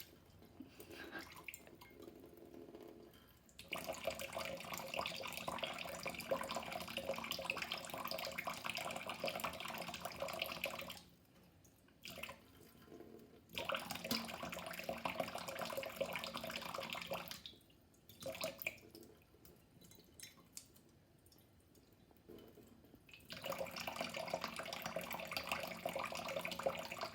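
Water running from a tap into a sink in three stretches of several seconds each, with quieter dripping and trickling in between.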